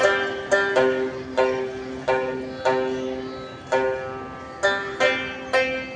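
A plucked string instrument with a bright, twangy banjo-like tone plays a slow melody of single notes, about ten plucks, each ringing out and dying away.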